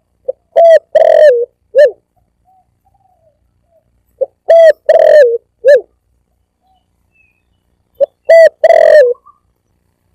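Spotted dove cooing: three phrases about four seconds apart, each a few short, low coos with one longer wavering note.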